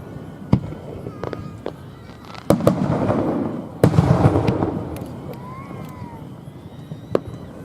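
Aerial fireworks display: shells bursting with sharp bangs at uneven intervals and two long rolling booms in the middle, with a faint whistle about six seconds in.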